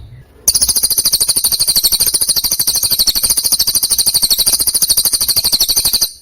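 Songbird masteran recording: a long, very fast trill of high, evenly repeated chips, roughly a dozen a second. It starts about half a second in and stops abruptly near the end.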